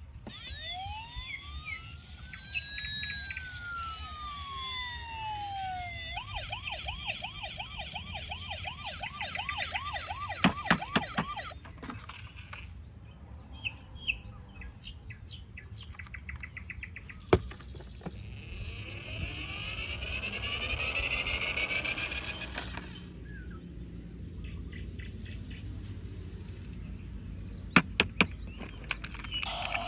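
Electronic toy siren sounds: slow rising and falling siren glides, then a fast warbling siren, followed by chirping electronic tones. A few sharp clicks are scattered through it.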